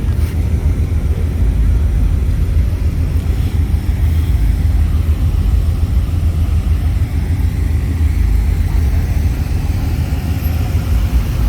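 Steady, loud low rumble of a car on the move.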